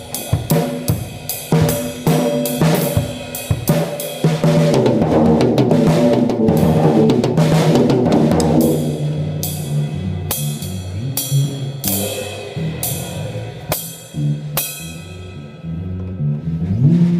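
A band playing, led by a drum kit. The snare, bass drum and cymbals keep a busy beat for the first half, then cymbal hits land about once a second and ring out. Held low notes from an amplified instrument sound underneath.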